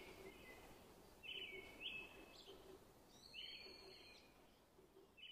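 Faint bird calls: a few short chirps every second or so, the longest about three seconds in, over a quiet background hiss.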